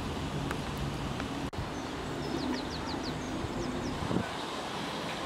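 A steady low rumble of outdoor background, with a small bird chirping a quick run of short high notes about halfway through. The sound drops out briefly about one and a half seconds in.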